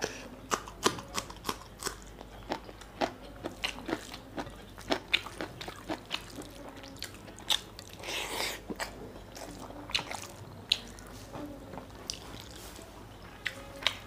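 Close-up mouth sounds of a man eating: irregular crisp clicks of biting into a green chilli and wet chewing of rice and mutton curry. A longer, noisier stretch about eight seconds in comes as a handful of food is pushed into the mouth by hand.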